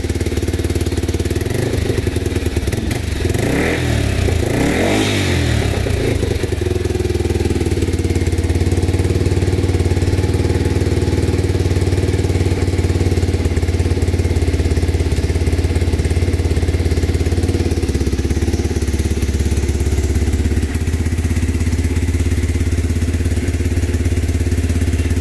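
Yamaha Serow 225's single-cylinder four-stroke engine with an aftermarket muffler, idling steadily, with throttle blips that raise and drop the revs about three to six seconds in.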